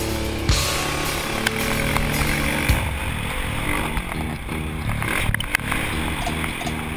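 Motocross bike engines running and revving.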